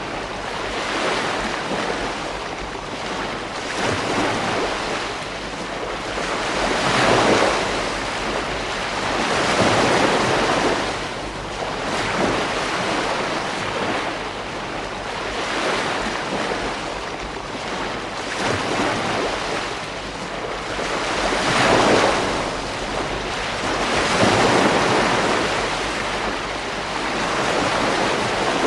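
Sea waves surging and breaking on a beach. The surf swells and washes back every few seconds, with the strongest surges about a quarter, a third and three-quarters of the way through.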